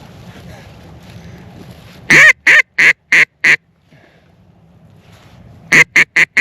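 A hunter's waterfowl call blown close by in two runs of short, loud honking calls: five notes about two seconds in, then four quicker ones near the end.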